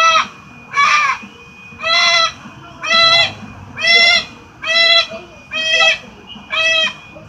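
Pet parrot giving loud, harsh squawks over and over, about one a second, each call short and strident.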